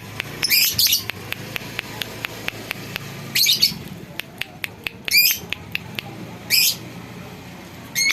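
Lovebird calling in shrill, rasping bursts of chatter, four or five in a few seconds, with many short sharp ticks between them.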